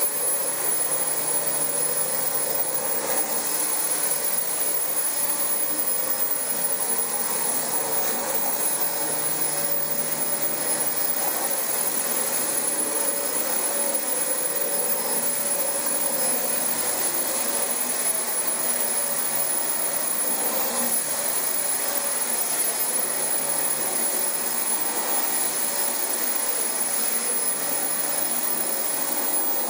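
Dyson DC25 upright vacuum cleaner running steadily on carpet: a constant rushing of air with a thin high motor whine on top.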